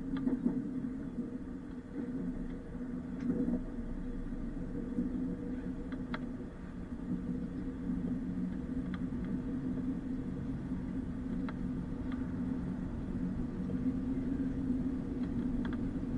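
Inside a moving passenger train: the steady low rumble of the train running on the rails, with a few faint clicks scattered through it.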